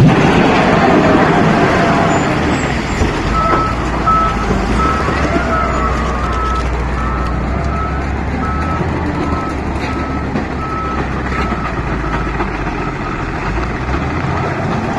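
Heavy machinery engine running steadily while a reversing alarm beeps at an even pace, about two beeps a second, starting about three and a half seconds in and stopping near the end.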